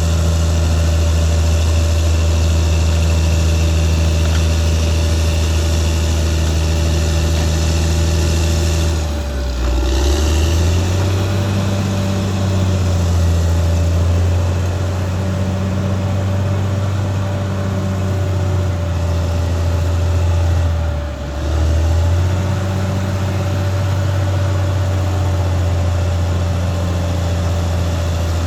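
Caterpillar D6R XL bulldozer's diesel engine running steadily, with a constant high whine over it. The engine note sags briefly twice, about nine seconds in and again about twenty-one seconds in, then picks back up and wavers as the load changes.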